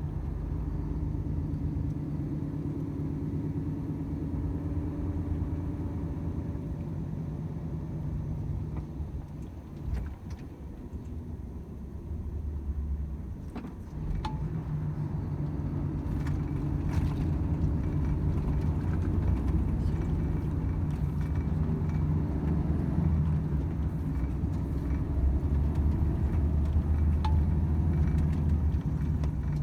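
Volvo FH 500 truck's 13-litre straight-six diesel engine running on the road as a steady low drone. It eases off for a few seconds about a third of the way in, then comes back a little stronger, with a few faint clicks and rattles.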